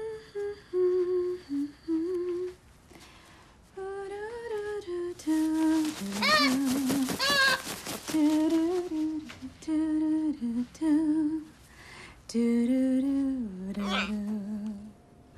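A woman humming a slow, wordless tune in short phrases with pauses between them. About six seconds in there is a louder, wavering stretch.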